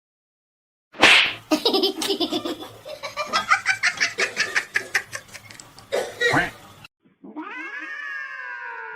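A person laughing in a long run of quick bursts. After a short break near the end, a long drawn-out animal call begins, sliding slowly down in pitch.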